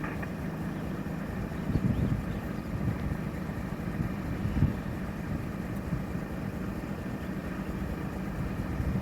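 Vehicle engine running steadily at low revs, with a couple of low knocks partway through.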